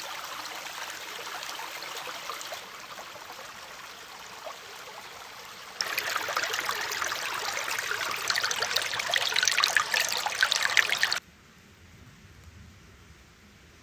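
Sirloin steak sizzling over a campfire: a steady hiss full of fine crackles that jumps louder about halfway through and then cuts off abruptly near the end.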